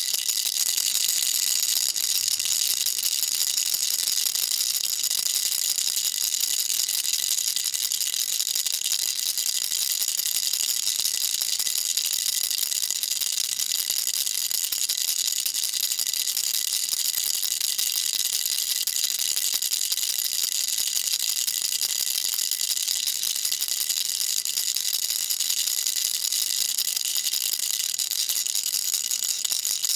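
Baby rattle shaken continuously: a steady, dense high-pitched rattling of small beads without pauses.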